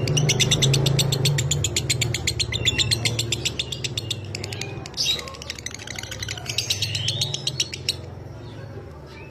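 Lovebird singing its fast chattering trill (the 'ngekek'): a rapid rattle of sharp, dry high notes, well over ten a second, breaking off about four and a half seconds in, then a second, shorter run with a few rising chirps. A steady low hum runs beneath.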